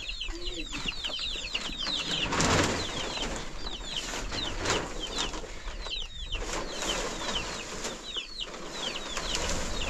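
Birds chirping continuously in many rapid, short, high, falling chirps, with a few bursts of rustling noise over them.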